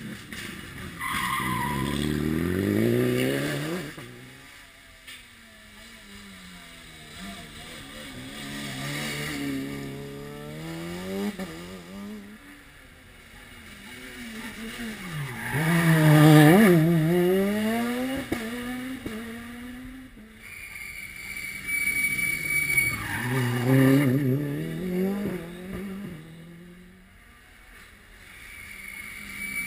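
Rally car at racing pace on a stage: the engine revs climb and drop back again and again through gear changes and lifts for corners. It is loudest as it passes a little past the middle, then keeps revving hard.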